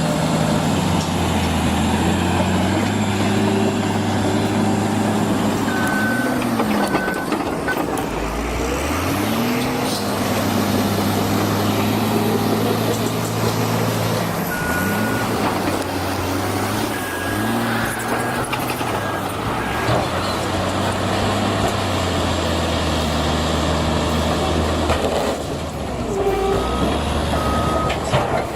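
Heavy diesel engine of a machine working, revving up and falling back again and again under load, with a few short high beeps.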